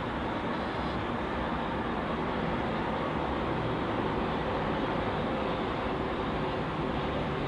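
Steady outdoor background rumble at an even level, with no distinct bangs or bursts.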